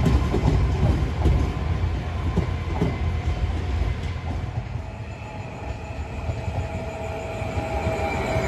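Train rolling past on the track: steady rumble with wheels clacking over rail joints. About five seconds in the clacking thins and a steady high-pitched tone rises above the rumble.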